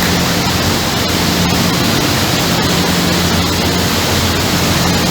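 A loud, steady rush of wind and water under a low, even engine hum from a fast river passenger boat underway.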